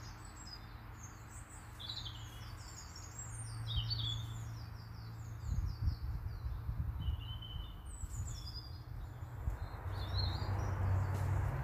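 Small birds singing, a run of quick repeated chirping notes with a few longer phrases, over a steady low hum. Some low rumbling comes about halfway through.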